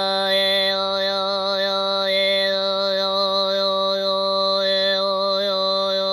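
Khöömii overtone throat singing: one low drone held steady at a single pitch, while a whistling overtone above it steps up and down several times as a melody.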